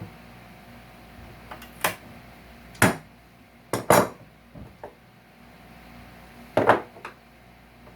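About five sharp metallic clinks and knocks, the loudest around three and four seconds in and again near the end. They come from hand tools working staples and nails out of salvaged couch wood.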